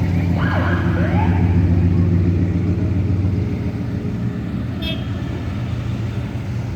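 Classic car engines rumbling as cars cruise past, the low engine note loudest through the first half and then easing off. A few brief high squealing glides sound about a second in, and a short sharp click about five seconds in.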